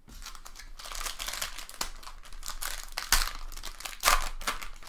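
Trading cards and their packaging being handled, crinkling and rustling, with two sharper snaps about three and four seconds in.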